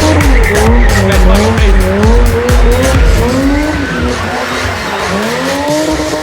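Car doing a burnout: the engine revs up and down over and over while the tyres squeal, mixed with music that has a heavy bass beat.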